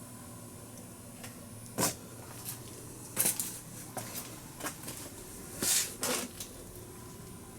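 A handful of short knocks and scrapes, spread over a few seconds, over a faint steady hum.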